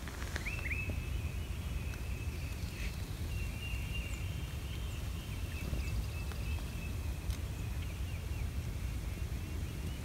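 Faint, high songbird chirps over a steady low rumble on the microphone, with a quick run of chirps around the middle.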